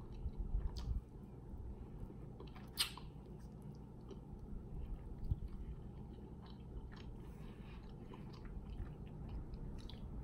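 A person chewing rotisserie chicken close to the microphone, with a few sharp clicks scattered through, over a low steady hum.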